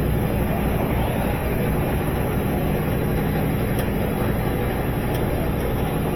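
Steady low hum with a rushing whir, like a running motor or fan, and a few faint light clicks about two thirds of the way in and near the end.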